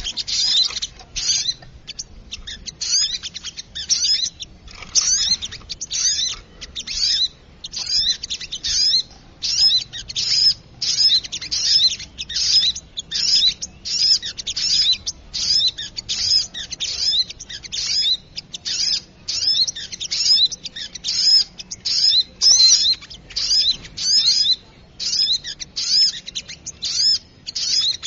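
Spiderhunter (sogok ontong) calling noisily: sharp, high-pitched chattering notes in quick bursts about once a second, without pause. This is a bird-lure recording meant to draw in small birds.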